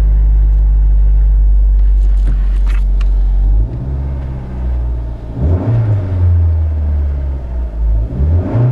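2004 Nissan Sentra's 1.8-litre four-cylinder engine running just after a very cold start, heard from inside the cabin. A steady low drone drops away a little over a third of the way in, and the engine pitch rises and falls twice, about halfway through and again near the end, as the throttle is blipped.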